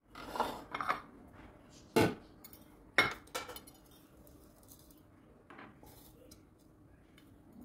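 Kitchen dishes and utensils clattering as they are handled, with two sharp knocks about a second apart as the loudest sounds.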